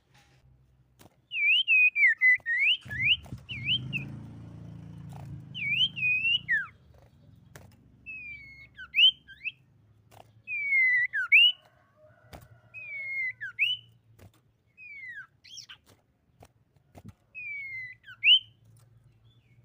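Common iora (sirtu) whistling short phrases: quick notes that dip and sweep back up, repeated in bursts every second or two. A few sharp clicks fall between the phrases, and a low rumble sits under the song near the start.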